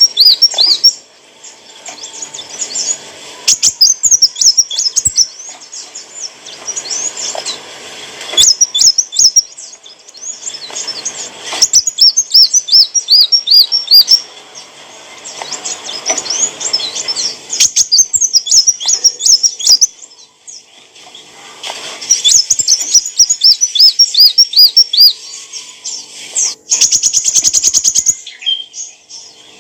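A kolibri wulung sunbird singing: bouts of rapid, high, repeated chirps and twitters with short pauses between them, and a fast buzzy rattle near the end.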